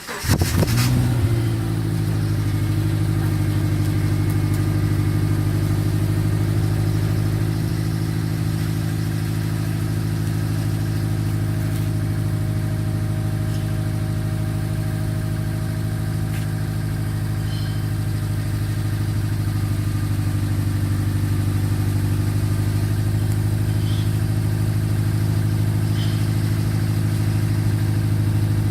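2005 Saab 9-2X Linear's 2.5-litre flat-four engine on a cold start, through the stock exhaust: it catches with a brief flare right at the start, then settles into a steady cold idle.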